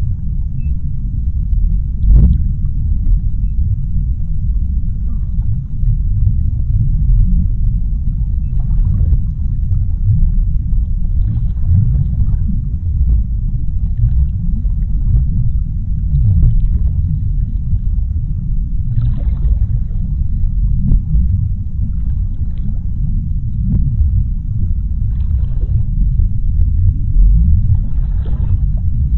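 Underwater sea ambience: a deep, steady low rumble, with faint short crackles and swishes every few seconds above it.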